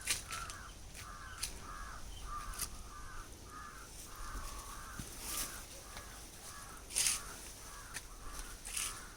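A bird calling over and over, short calls at about two to three a second, with a few sharp clicks and rustles over them, the loudest about seven seconds in.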